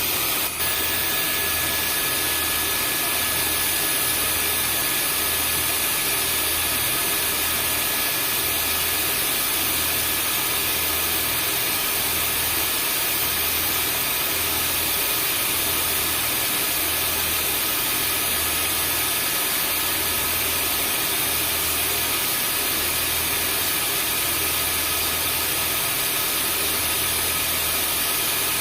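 Vacuum cleaner running steadily as white noise: a constant loud whooshing rush with a thin high whine over it and a low hum that pulses about once a second. There is a brief dip about half a second in, after which a steady whine tone sets in.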